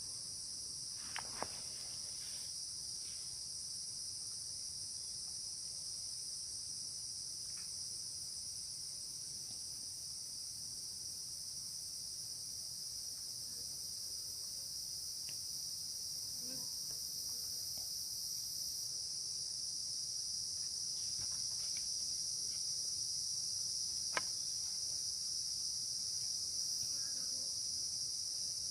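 Steady chorus of insects in two high shrill bands, growing slightly louder toward the end, with a few faint clicks and rustles.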